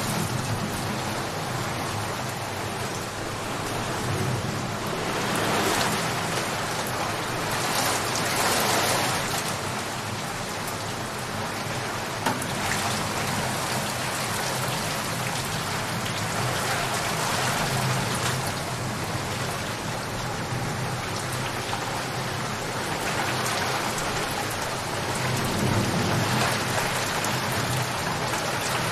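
Steady heavy rain falling, swelling louder several times, with low thunder rumbling in the background, most strongly near the end.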